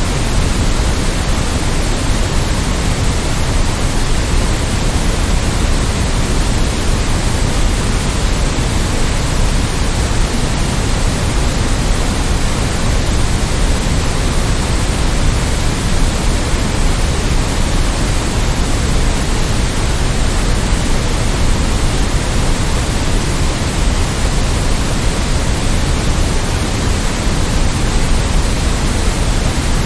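Steady, electronically generated white noise: a constant, even hiss, slightly fuller in the low end, with no changes or events.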